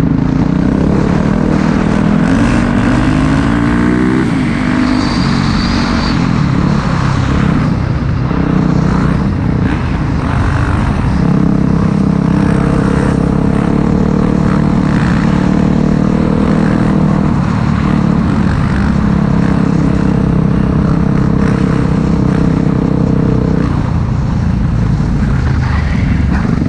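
Four-stroke single-cylinder dirt bike engine running under way, climbing in revs a couple of seconds in and then held at a steady speed for much of the time.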